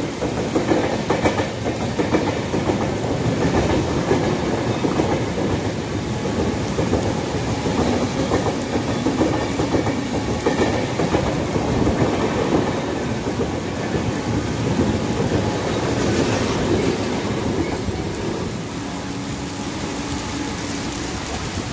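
Express passenger train running past, its coach wheels clattering over the rail joints in a continuous rapid clickety-clack that eases slightly near the end.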